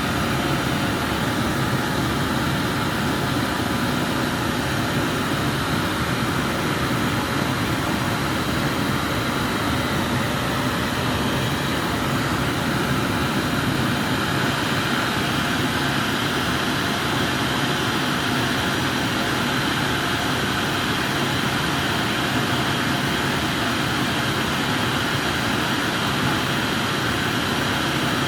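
Glassblower's bench burner flame running with a steady, even rushing hiss while the glass is worked.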